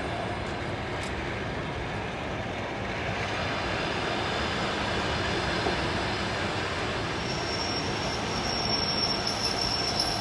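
Passenger train rolling into the station with a steady rumble of wheels on rail. A thin high squeal joins about seven seconds in and holds.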